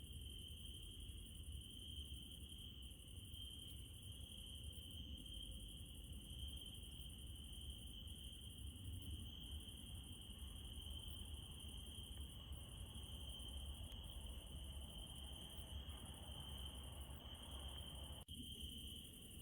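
Crickets chirring steadily at night as a continuous high trill, with a second, higher insect trill and a low rumble beneath. The sound drops out for an instant near the end.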